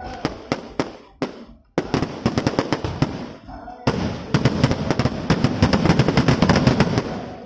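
Fireworks going off: a few separate bangs, then, after a brief gap, rapid strings of sharp cracks that come fastest and loudest in the second half.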